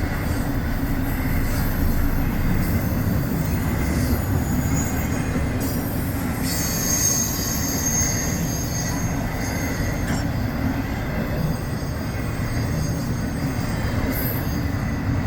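Loaded Norfolk Southern intermodal container cars rolling past with a steady low rumble of wheels on rail. A thin, high wheel squeal rises over it from about six and a half to ten seconds in.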